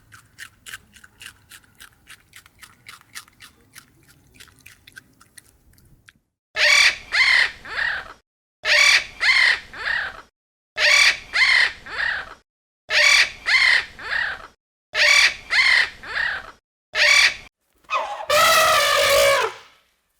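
Faint rapid ticking calls, about five a second, then a bird's loud harsh calls in groups of two or three, ending in one longer call that falls in pitch.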